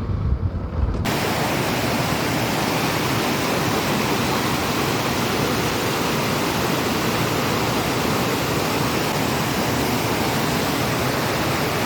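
A low rumble cuts off abruptly about a second in and is replaced by a steady, even hiss like static that holds at one level.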